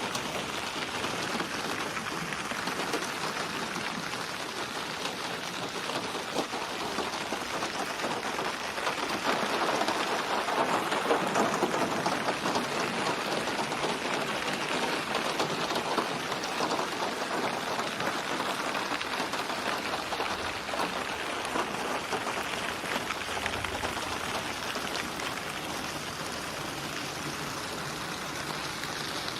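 Steady rain falling, a dense patter of drops that swells a little about a third of the way in, then settles back.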